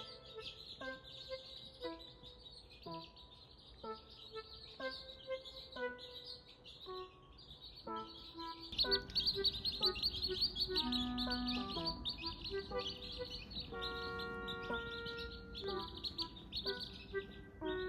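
A flock of young chicks cheeping continuously in rapid high peeps, over background music with a simple melody of short notes; the cheeping and the music grow louder about nine seconds in.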